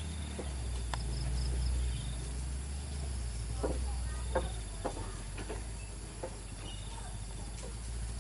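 Low, steady rumble of a heavy diesel truck's engine, with faint insect chirps and a few light knocks over it.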